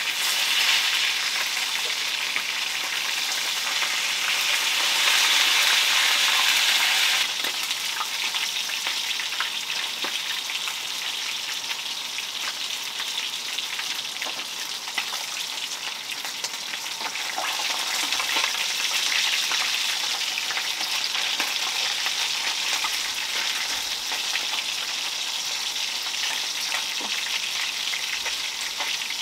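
Food frying in hot oil in a pan, a steady sizzle that is louder for the first seven seconds, drops suddenly, and swells again a little past halfway.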